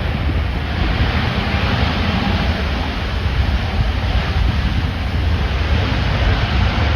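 Storm-force wind buffeting the microphone: a loud, steady rushing noise with heavy low rumble, swelling during the first second.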